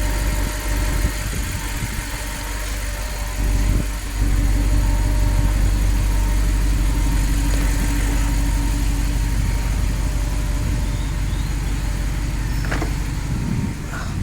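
Audi R8 engine idling steadily, running again after a no-crank, no-start fault was traced to a failed SRAM chip in its ECU and the repaired unit refitted. About four seconds in, the sound dips briefly and then comes back a little louder.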